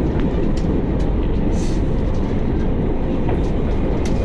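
Airbus A321 during take-off heard from inside the passenger cabin: a loud, steady rumble of engines and wheels, with a few light clicks and rattles now and then.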